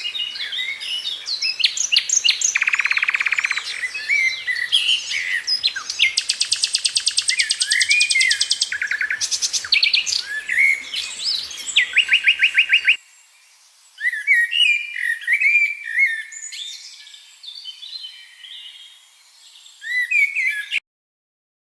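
Many small birds chirping and whistling together, with several rapid, rattling trills among them. About two-thirds of the way in, the background noise drops away and the calls go on more quietly. The sound stops just before the end.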